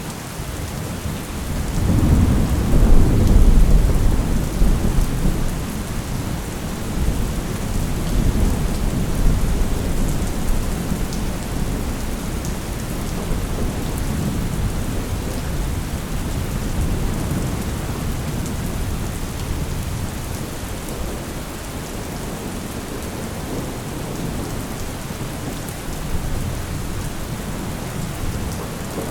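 Thunderstorm: steady heavy rain with a long roll of thunder that swells about two seconds in and rumbles away slowly over the following seconds.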